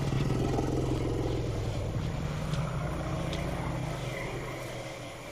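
Elephant's deep rumble, the audible upper part of the infrasonic call that neighbouring herds use to keep in contact. One long, low, steady call that starts suddenly and slowly fades over about five seconds.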